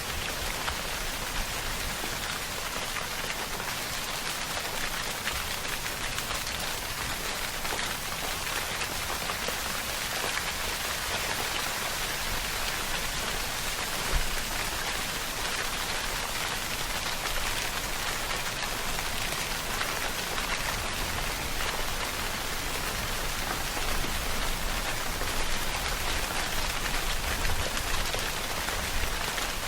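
Steady, heavy rain falling on a surface: a dense, even hiss of drops, with one sharper drop about halfway through.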